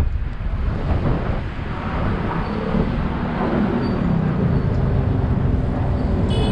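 Road traffic passing along a city street, with strong wind rumbling heavily on the microphone.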